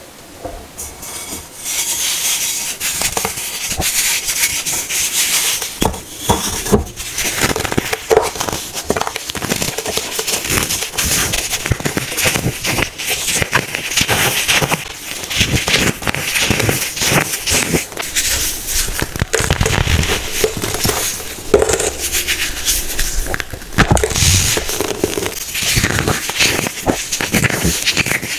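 Hard-pressed baking soda being crushed, a dense, continuous crunching and crackling with many sharp small cracks.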